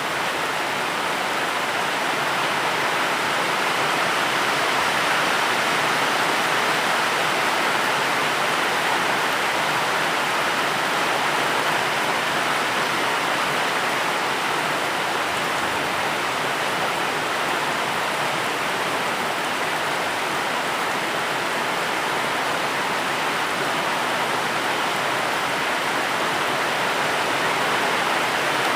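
Steady rain falling: an even, unbroken hiss of rainfall with no single drops or other sounds standing out.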